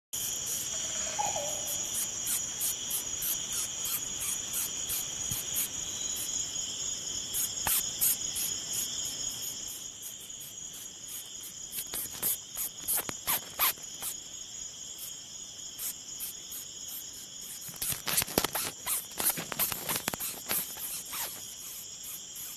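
Insects trilling in a steady high-pitched chorus, with many short sharp clicks over it that crowd together near the end; the trill fades about halfway through.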